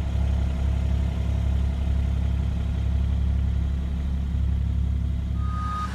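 Engine of heavy earthmoving equipment running steadily at a low, even pitch while working dirt.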